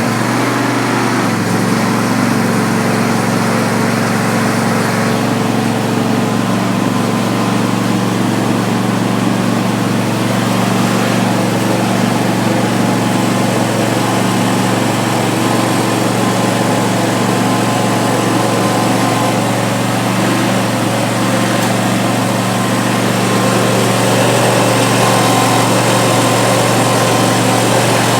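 Craftsman PGT9500 30 hp garden tractor engine running at a steady speed, a little louder for the last few seconds.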